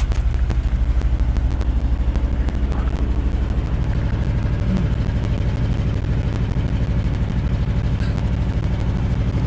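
1973 Ford F-250's 360 V8 engine running steadily, a loud low rumble with fast, even firing pulses.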